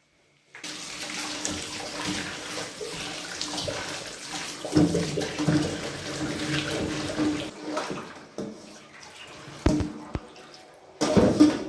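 Water running from a tap into a sink, with a couple of sharp knocks about ten seconds in.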